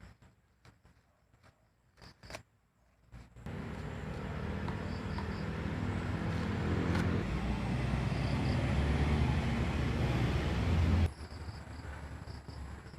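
A motor vehicle's engine running close by, growing steadily louder for several seconds, then cut off suddenly. A few faint clicks come before it.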